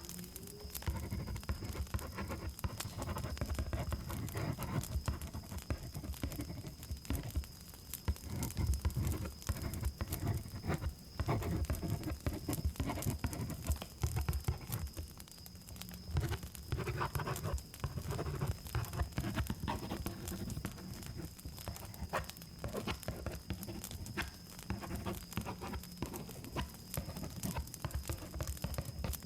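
Close-miked ASMR trigger sounds: continuous irregular rubbing and scratching with many small clicks against the microphone, over a steady high cricket trill.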